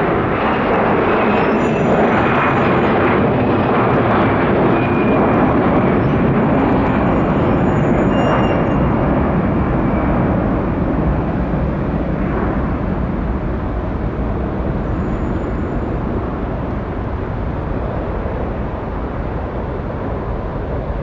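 Airbus A340-300's four CFM56 jet engines on a takeoff departure: a loud, steady jet rumble that slowly fades over the second half as the aircraft climbs away.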